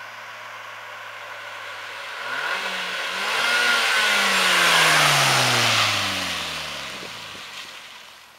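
Car engine and exhaust: a steady low note, then about two seconds in it rises as the car pulls away. It is loudest around the middle, then its note drops and fades as the car goes past and away.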